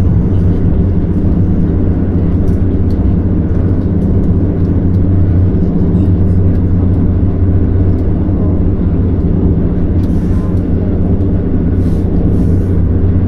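Steady low drone of a moving vehicle heard from inside, an even engine and road hum with no change in pace.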